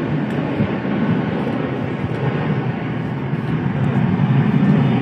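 Boeing 737-800's CFM56-7B jet engines running: a steady, loud rumble that swells slightly near the end.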